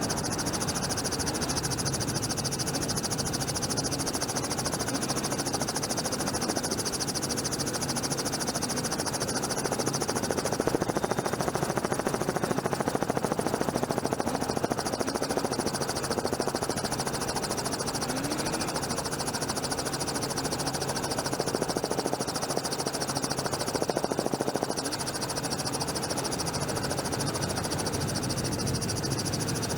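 Helicopter running steadily, a constant low hum under a high hiss.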